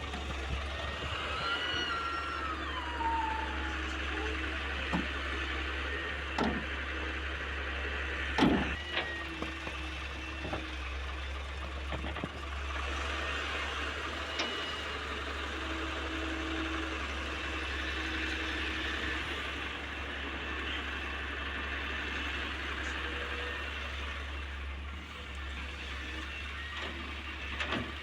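Excavator's diesel engine running steadily under work, with scattered knocks and clanks, the loudest about eight and a half seconds in. Thin whining tones come and go over the rumble, one gliding downward a couple of seconds in.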